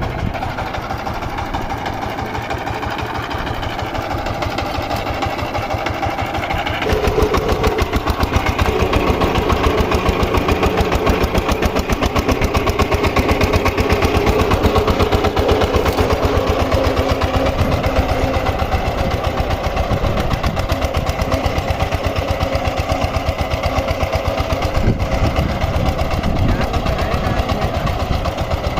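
VST Shakti 130-DI's single-cylinder diesel engine running with a fast, even knock. About seven seconds in it speeds up and gets louder, then holds steady.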